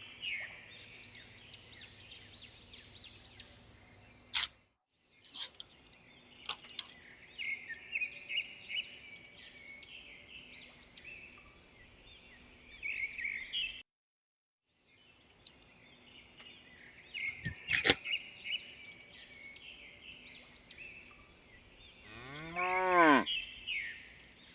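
A cow mooing once near the end, a call about a second long that rises and falls in pitch. Under it, birds chirp over and over, with a few sharp clicks.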